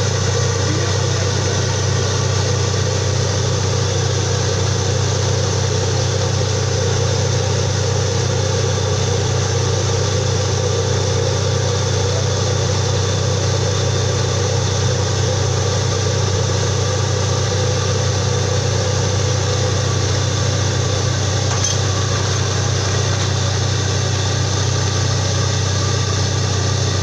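Borewell drilling rig's engine running steadily with a low drone, no change in speed.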